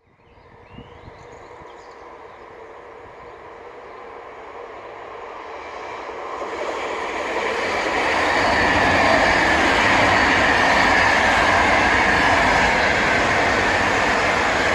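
Electric commuter train approaching and passing on the line, its rush of wheels on rails growing louder over the first eight seconds and then staying loud and steady, with a high ringing tone running through it.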